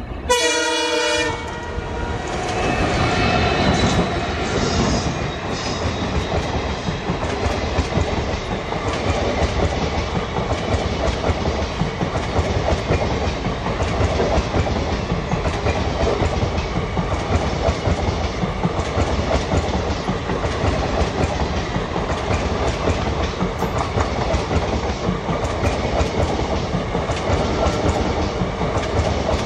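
Diesel locomotive sounds one horn blast about a second long as it arrives, then passes, and its passenger coaches run by with a steady clatter of wheels on the rails.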